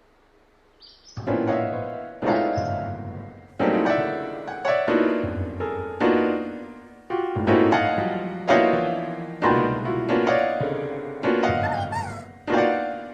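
Slow, sad piano music: chords struck one after another, each ringing and dying away. It starts about a second in.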